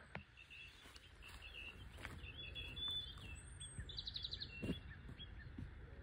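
Songbirds singing: short chirps and warbling phrases, with a quick trill of rapid notes about four seconds in, over a low steady background rumble.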